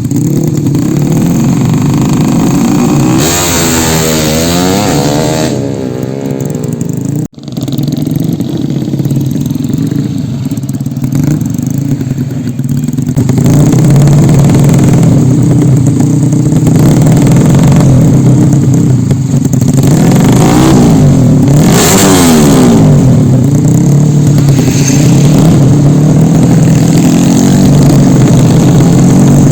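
Motorcycle engines running and being revved, with the pitch rising and falling a few seconds in and again past the middle. The sound cuts out briefly about seven seconds in, then gets louder and stays steady.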